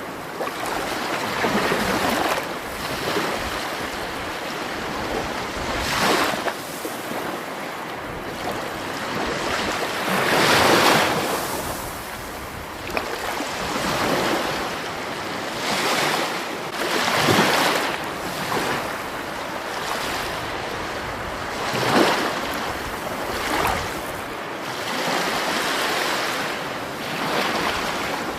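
Continuous rushing water, a steady wash that swells louder every few seconds and eases back.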